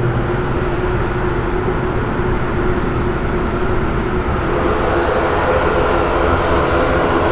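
Aircraft engines running steadily: a continuous rumble with a few steady hums, a further hum joining about four and a half seconds in.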